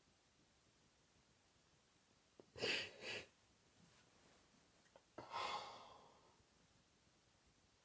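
A person's breathing in sorrow, with long quiet between breaths: a broken, two-part breath about two and a half seconds in, and a longer breath about five seconds in that trails off, like a sigh.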